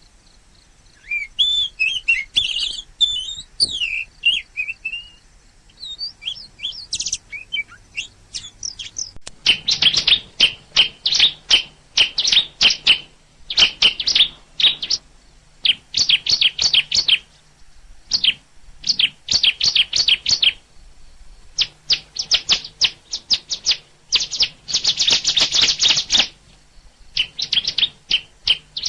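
Songbirds singing. First there are varied warbling whistles that glide up and down, then from about a third of the way in come repeated runs of rapid, sharp high chirps, each lasting a second or two with short pauses between them.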